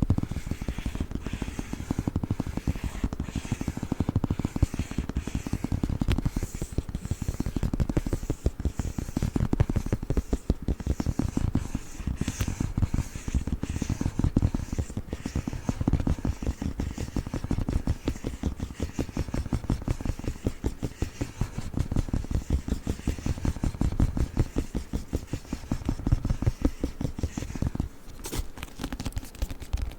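Fast, continuous fingernail tapping and scratching on a book, a dense run of quick clicks and knocks.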